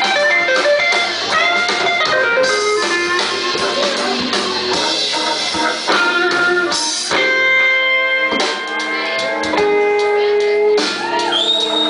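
Live band music led by an electric guitar playing a melodic line; from about seven seconds in it holds long, sustained notes.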